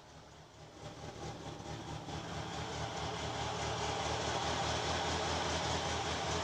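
VAZ-2106 Zhiguli's four-cylinder carburetted engine idling unevenly on petrol, with misfires in its low pulsing beat, growing louder over the first few seconds. The owner takes the rough running for an overflowing carburettor float chamber, with dirt under the needle valve seat.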